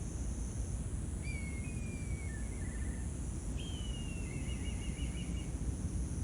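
A small bird singing two phrases, each a drawn-out, slightly falling whistle that ends in a quick trill of repeated notes, over a steady low background rumble.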